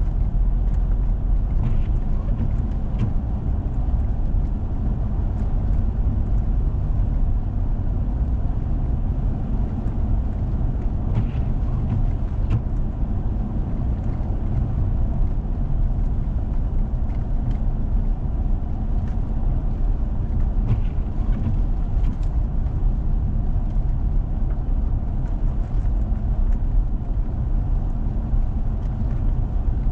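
A four-wheel-drive vehicle driving on a snow-covered road: a steady low rumble of engine and tyres, with a few light ticks now and then.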